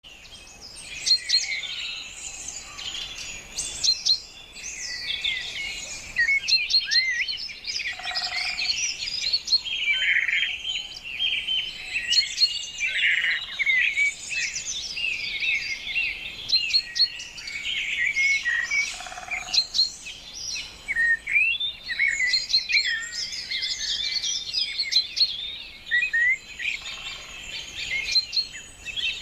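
A chorus of many small birds chirping and twittering at once, with quick high calls overlapping without a break.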